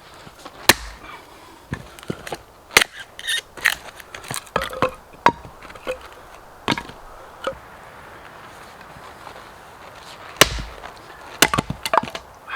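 Firewood being chopped: irregular sharp knocks of a blade striking wood, a few loud strikes among lighter taps, with a lull of a couple of seconds before a loud strike near the end.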